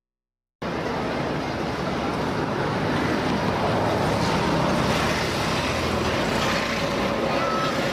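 Busy outdoor noise of vehicles and voices, starting abruptly under a second in and running steadily.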